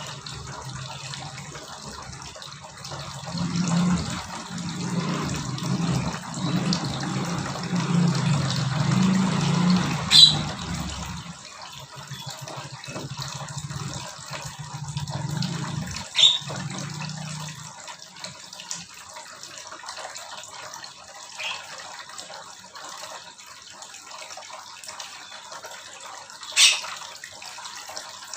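Steady running-water noise with a low hum through the first half, and a few short, sharp chirps from small aviary birds, the loudest about ten seconds in and near the end.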